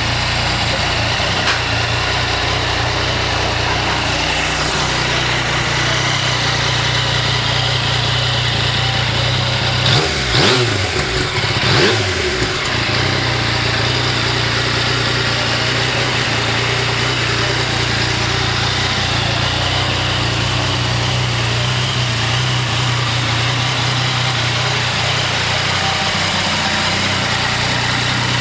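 Yamaha Tracer 900's three-cylinder engine idling steadily, with a few quick throttle blips about ten seconds in before it settles back to idle.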